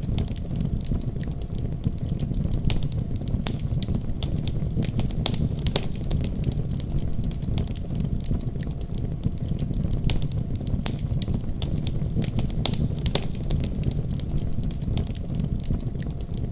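Wood fire burning in a fireplace: a steady low rush of flames with frequent sharp crackles and pops scattered irregularly throughout.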